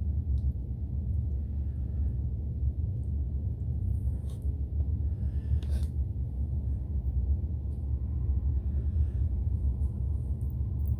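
Steady low background rumble, with a few faint clicks about four and six seconds in.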